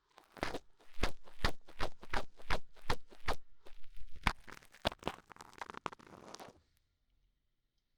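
Ear-cleaning ASMR strokes on a binaural microphone's ear: a quick series of sharp scratchy scrapes, about three a second, that stops about six and a half seconds in.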